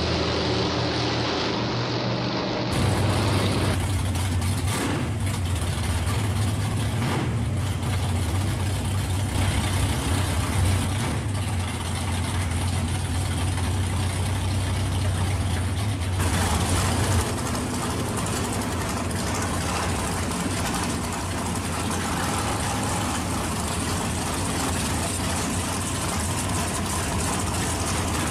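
Drag cars' engines idling and running steadily in the staging lanes with a deep low rumble. The sound breaks off and changes abruptly twice, at about three seconds in and near the middle.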